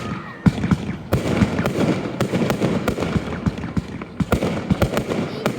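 Fireworks display: a rapid, irregular string of bangs and crackles from bursting shells, several a second.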